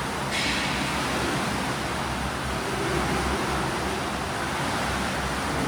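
Swimming-pool ambience: a steady wash of water noise from swimmers splashing through breaststroke drills, with a brief sharper splash near the start.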